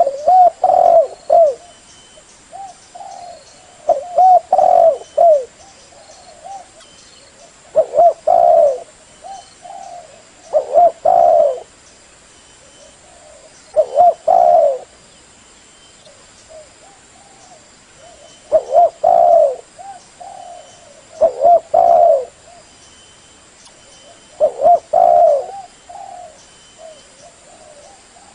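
Spotted dove (tekukur) cooing: a phrase of several short, low coos repeated about every three to four seconds, the calls used to lure the birds in.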